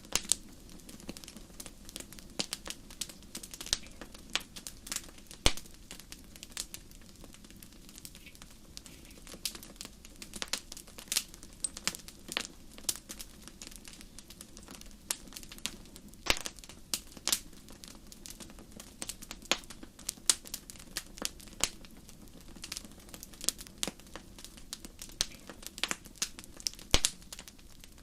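Wood fire in a fireplace crackling, with many sharp irregular pops and snaps over a soft steady low rumble of the burning.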